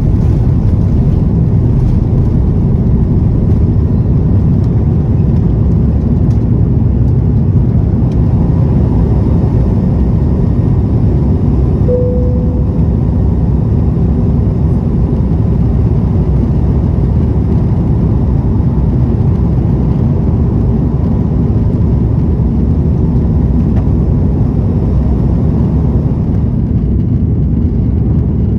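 Airbus A330-200 engines and airflow heard from inside the cabin during takeoff, a loud, steady low noise. A brief tone sounds about twelve seconds in.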